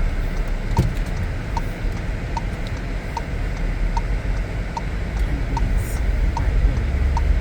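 Car's indicator clicking steadily, a little more than once a second, over the low rumble of the engine and road inside the cabin.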